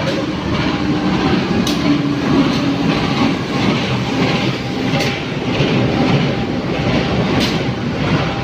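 Train passing close by, a steady rumble of wheels on rails with sharp clacks now and then as the wheels cross rail joints.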